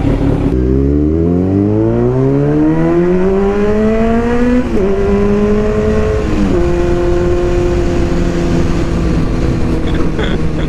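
Kawasaki Z900's inline-four engine accelerating hard, its pitch climbing steadily, then two quick upshifts, about five and six and a half seconds in, after which it holds a steady cruise.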